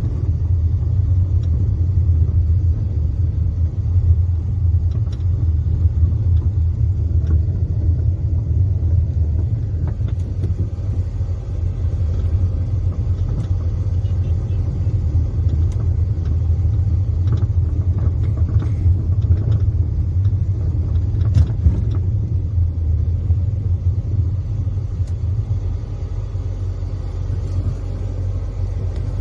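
Steady low rumble of a car driving along a road, with a few faint knocks.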